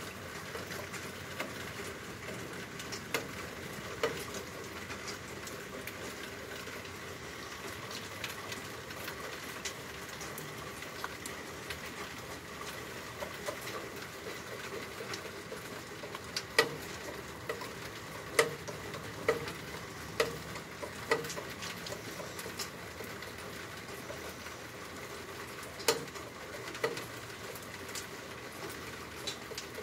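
Steady rain falling in a hiss, with single louder drips splashing now and then, most often in a run near the middle.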